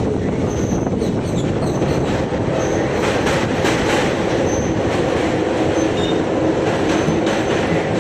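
Bangalore–Ernakulam Intercity Express passenger train running on the rails: a steady rumble and rattle with wheel clatter, and brief high squeals now and then.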